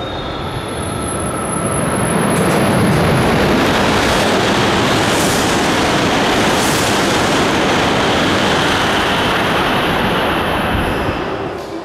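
E7/W7-series Shinkansen train passing through a station platform at speed without stopping: a loud rush of air and rolling wheels that builds over the first couple of seconds, holds steady, and dies away near the end.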